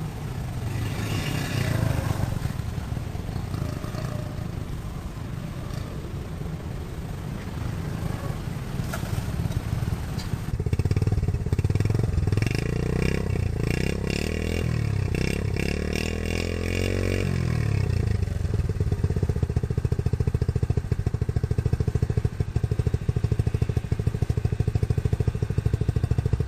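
Restored Honda 70cc motorcycle's small four-stroke single-cylinder engine running, revved up and down several times in the middle, then running steadily again.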